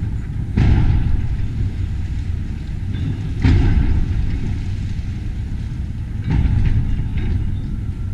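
Heavy demolition machine working: a steady low rumble with three louder crunching surges, about three seconds apart.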